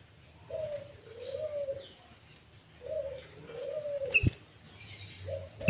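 A dove cooing: a short note followed by a longer arched coo, repeated about every two and a half seconds, with faint higher bird chirps. A sharp click about four seconds in, and a loud knock at the very end.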